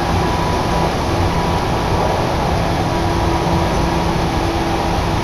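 Chichibu Railway electric train running at speed, heard from inside the car: a loud, steady rush of running noise with a few faint steady tones underneath.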